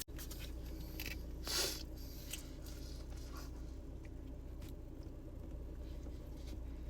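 A person chewing a bite of cinnamon roll: a few soft, scattered mouth sounds, the clearest about a second and a half in, over a steady low hum.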